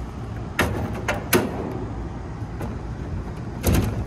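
About four sharp knocks and clicks over a steady low rumble, the last one a short cluster near the end: screws and sheet-metal panels of a condensing unit being handled during reassembly.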